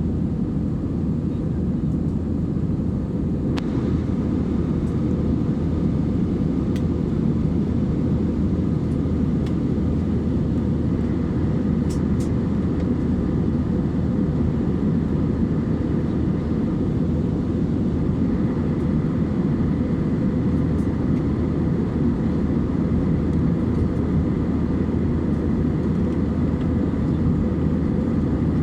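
Steady low rumble of an Airbus A320-232 airliner heard inside the cabin from a window seat: its IAE V2500 engines and the rush of air along the fuselage. A faint steady whine joins about a third of the way in, and there are a few light clicks.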